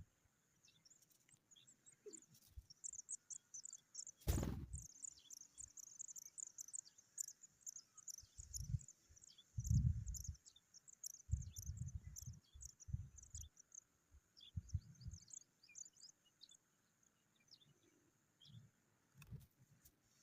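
Small birds chirping: many short, high chirps come in quick succession, thickest in the first half and thinning out later. Low rumbles come and go underneath, and there is one sharp knock about four seconds in.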